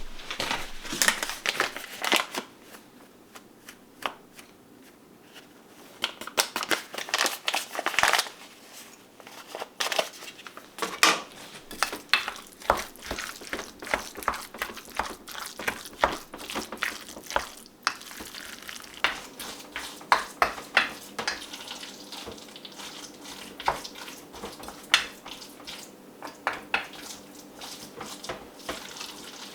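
Kitchen food-preparation sounds: irregular knocks, clicks and crinkling from handling food, wrappings and utensils, with a faint steady hum in the second half.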